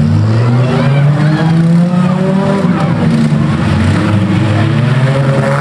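Several six- and eight-cylinder demolition-derby car engines revving at once, their pitches rising and falling as they push against each other.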